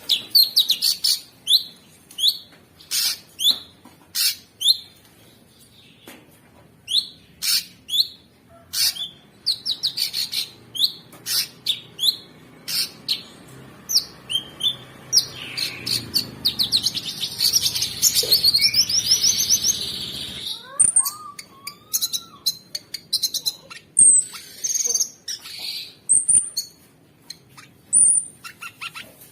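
A cucak sungkok singing: a series of sharp, loud chirps, breaking into a fast, dense chattering phrase about halfway through, then scattered high whistled notes.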